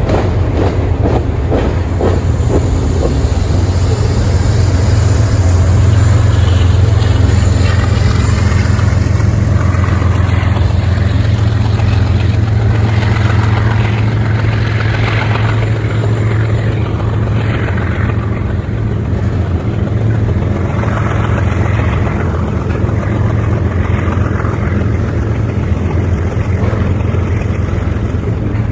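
Freight train passing: a steady low drone of diesel locomotive engines over the continuous rumble of rolling wheels on rail.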